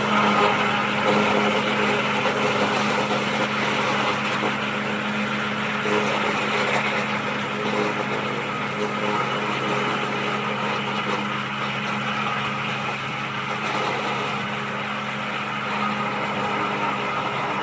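Landini 90 hp tractor's diesel engine running steadily while it drives a BCS 404 disc mower, a constant hum under a wide, even noise.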